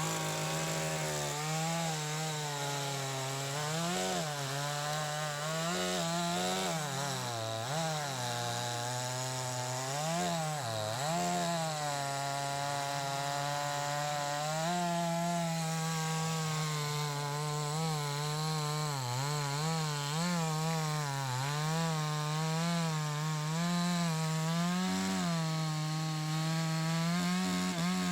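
Farmertec JonCutter two-stroke chainsaw running at high revs while cutting wood. Its pitch dips and recovers again and again as the chain loads up in the cut.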